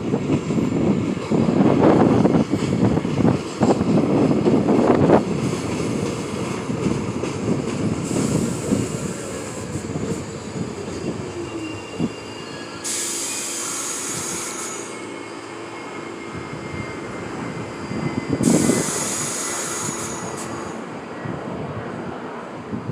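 R46 subway train running on the rails, loudest in the first five seconds, with wheels squealing. Two bursts of hissing air, each about two seconds long, come just past the middle and again later on.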